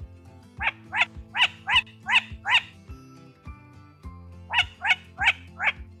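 A large bird giving short, loud calls: a run of six, a pause, then four more, about three a second. Soft background music runs underneath.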